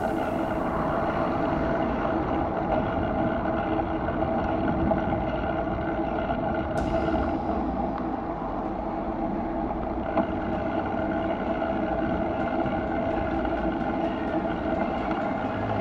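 Steady rolling hum of a bicycle ride beside traffic, picked up by a camera's built-in microphone mounted low on the bike. There is one sharp click about seven seconds in.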